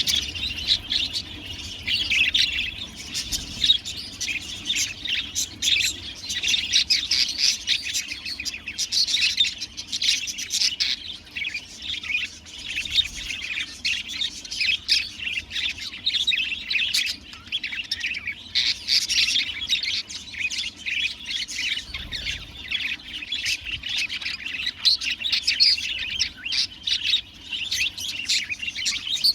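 A flock of budgerigars chirping and warbling continuously, a dense chatter of overlapping rapid notes with occasional squawks.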